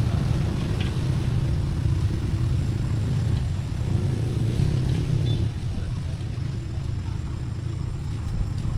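Tractor engine running with a steady low rumble, easing off slightly about five and a half seconds in.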